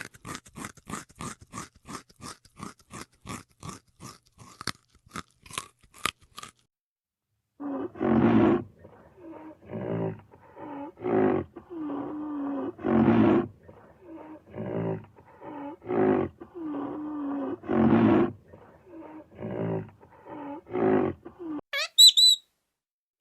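A rapid run of sharp clicks or crunches, about three a second, for the first six seconds. Then, after a short pause, an animal calls over and over, a dozen or more low, rough calls, some gliding in pitch.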